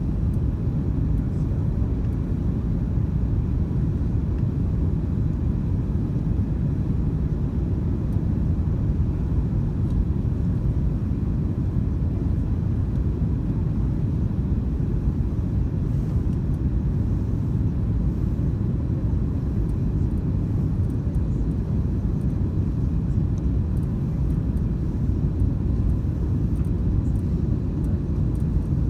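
Airbus A330-202 cabin noise: a steady low rumble of the jet engines and the airframe, heard from inside the passenger cabin.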